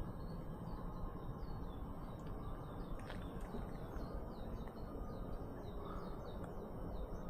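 A small bird calling in a run of short, high chirps, each sliding down in pitch, a few a second, over a steady low background rumble.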